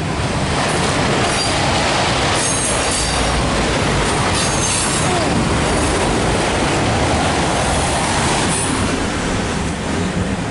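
Empty autorack freight train rolling past: a steady loud rumble and rattle of wheels on the rails, with short high-pitched wheel squeals now and then.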